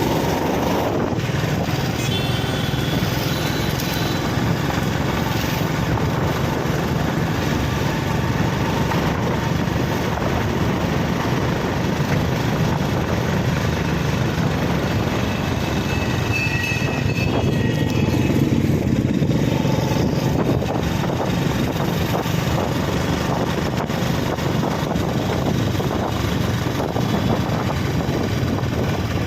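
Street traffic noise: a steady rumble of passing vehicle engines, motorcycles among them. Brief faint high tones sound about two seconds in and again past the middle.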